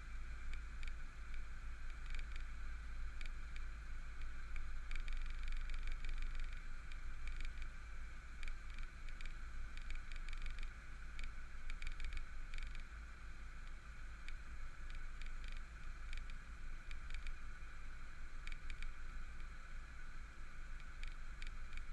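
Idling V8 car engines: a steady low rumble with a steady higher hum over it, and irregular light rattling clicks throughout.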